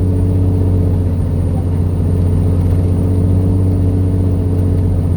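Truck engine running steadily under way, a constant low drone heard from inside the cab.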